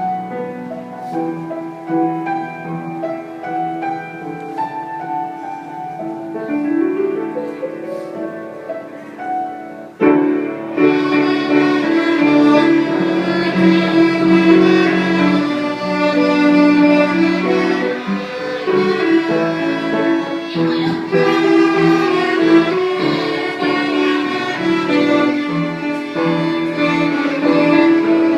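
Violin played with piano accompaniment. A rising slide comes a few seconds before the music turns suddenly louder and fuller, about ten seconds in.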